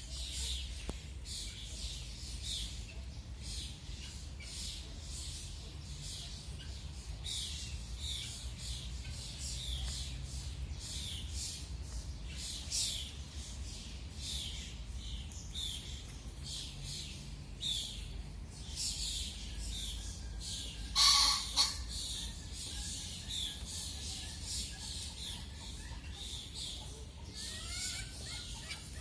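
Small birds chirping over and over, short high chirps that slide downward about twice a second. About two-thirds of the way through there is one louder, harsher call.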